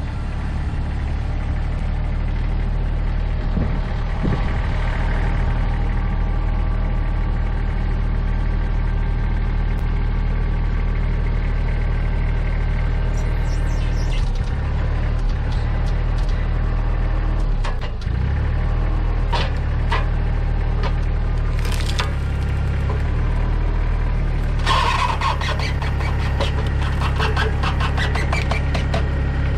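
Tractor engine running steadily while its grapple works on logs and brush: sharp cracks of wood now and then, and a dense run of wood snapping and splintering in the last few seconds.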